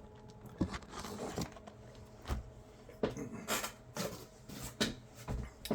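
Handling of a trading card box and its packaging: scattered rustles, clicks and taps, about ten in a few seconds.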